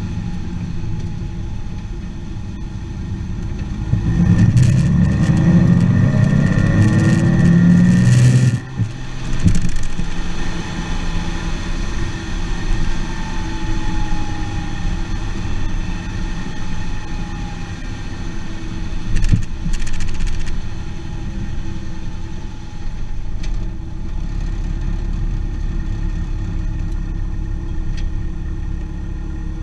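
Porsche Cayman S flat-six engine and exhaust running steadily. About four seconds in it is revved for several seconds with rising pitch, then drops back abruptly. A short rev blip follows later.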